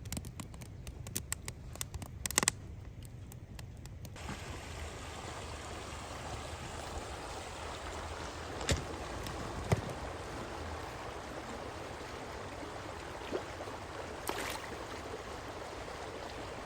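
Mountain creek flowing steadily, with a few sharp clicks over it. For the first four seconds the water is fainter, under a quick run of clicks.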